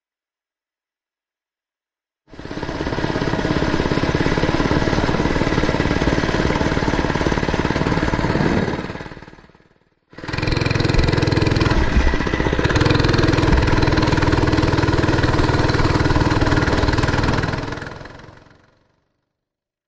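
Mini bike's small engine running at a steady speed, cutting in suddenly about two seconds in and fading away around the middle, then cutting in again at once and running steadily before fading out near the end.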